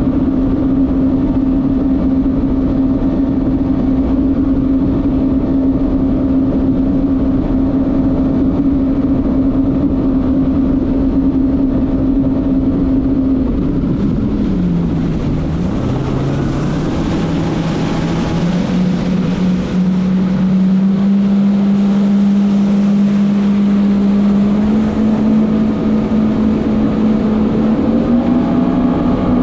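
Jet ski engine running at a steady high speed with wind noise on the microphone. A little after halfway the engine pitch drops sharply as it slows off the throttle, then climbs back up in steps toward the end.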